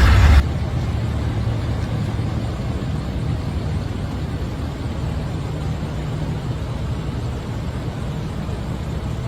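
A louder noisy sound cuts off about half a second in, giving way to the steady low rumble of a motor vehicle running.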